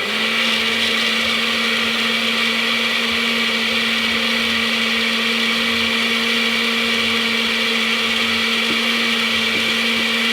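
A motor-driven machine, such as a blender or grinder, running at a steady speed: a constant hum over a loud even hiss.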